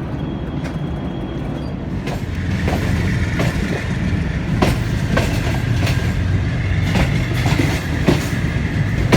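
Passenger train running on the rails: a steady rumble of the coaches that grows louder about two seconds in, with the wheels clacking sharply over rail joints at irregular intervals.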